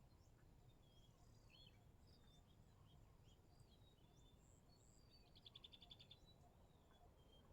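Faint birds calling: scattered short chirps and whistles, with one quick rattling trill about five and a half seconds in that is the loudest sound, over a low steady background rumble.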